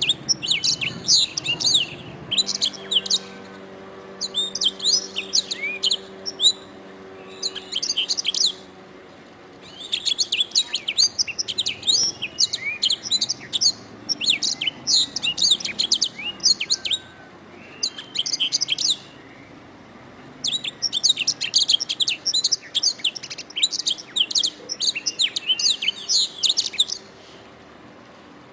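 Domestic canary singing: long runs of rapid, high chirps and trills, in several bursts broken by short pauses.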